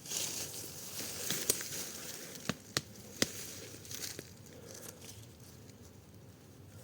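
Rustling and crackling of dry leaves and twigs on the forest floor, with three sharp snaps a couple of seconds in, then fainter rustling.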